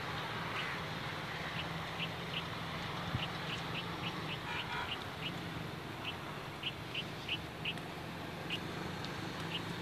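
A bird calling in short, high chirps, several a second in irregular runs, over a steady low background rumble.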